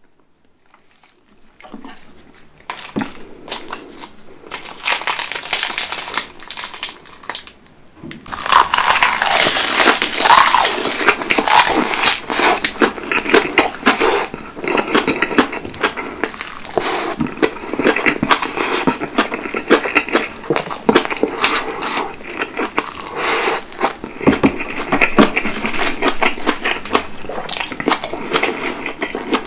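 Close-miked chewing of cabbage kimchi with rice wrapped in roasted seaweed: wet crunching and crackling, which starts sparse and becomes dense and much louder about eight seconds in.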